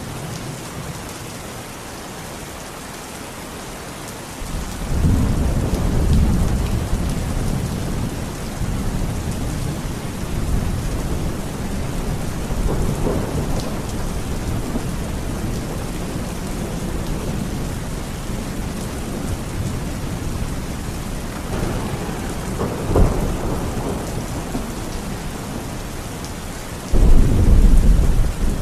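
Heavy rain falling steadily, with rolling thunder: a long low rumble builds about four seconds in and rolls on, a sharper clap comes later, and a loud new peal breaks near the end.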